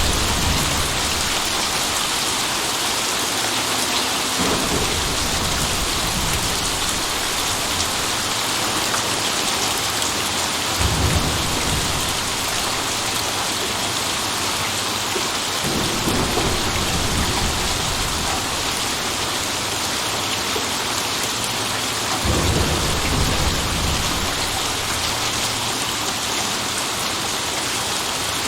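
Steady heavy rain falling, with rolls of thunder rumbling low about every five seconds, the clearest near the middle and about three quarters of the way through.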